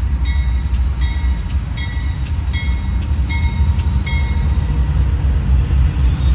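Amtrak Silver Meteor passenger train pulling in with a heavy low rumble. Over it a bell rings about two to three strokes a second, fading out about four seconds in.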